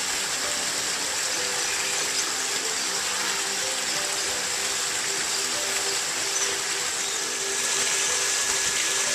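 Steady rushing of running water, with quiet music playing underneath.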